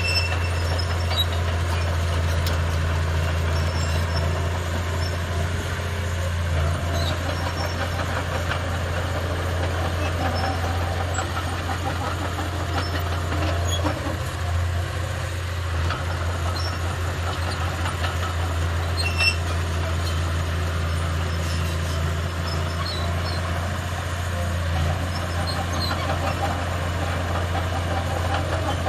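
Heavy earthmoving machinery's diesel engine running steadily under work, a constant low drone, with a few faint metallic clinks and one sharper click about two-thirds of the way through.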